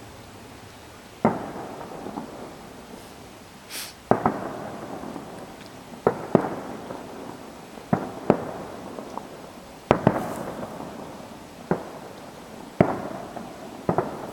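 Aerial fireworks shells bursting at irregular intervals, about ten bangs, each trailing off in a rolling echo; some come in quick pairs.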